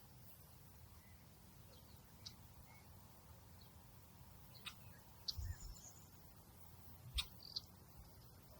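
Quiet outdoor nature ambience: a faint, steady low rumble with a few short, high chirps and clicks scattered through it. The clearest come about five and seven seconds in, with one brief high whistle.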